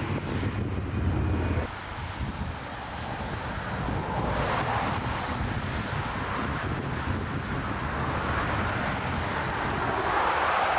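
Gusty wind buffeting the microphone, its low rumble dropping off suddenly under two seconds in, with the rushing noise of an airliner swelling about four seconds in and again near the end.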